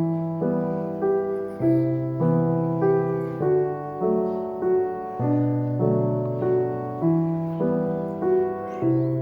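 Background piano music, soft and gentle, with a steady stream of evenly paced notes.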